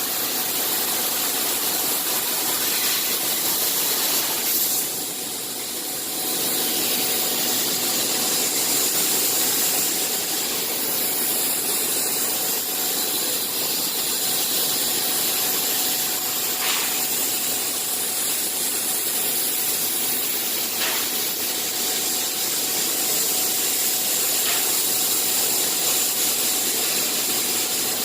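Bystronic CNC machine running: a steady hissing mechanical noise with a faint constant tone, dipping briefly about five seconds in, with a few light clicks later on.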